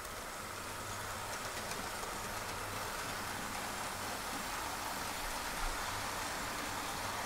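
Model train running along the layout's track, a steady whirring rumble that grows slightly louder as it comes closer.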